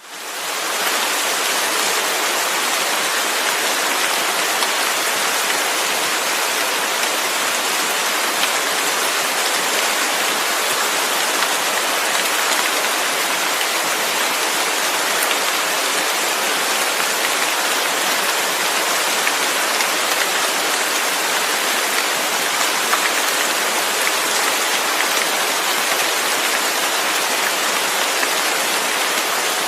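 Steady rain: an even, unbroken hiss of falling rain that fades in over the first second, then holds without change.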